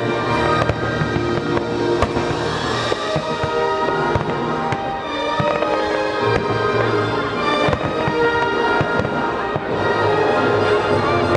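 Aerial fireworks shells bursting with several sharp bangs and crackle, over music with sustained notes.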